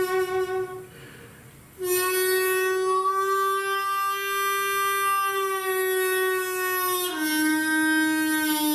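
A wind instrument playing an improvised slow lament in long held notes: one note breaks off for a short breath about a second in, is held again for about five seconds, then steps down to a lower note near the end.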